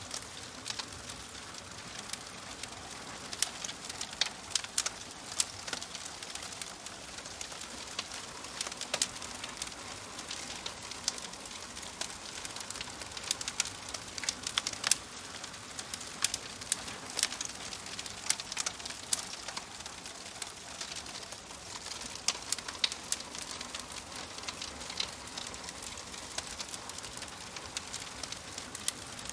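Wood fire crackling in a fireplace: a steady soft hiss with many sharp, irregular pops and snaps.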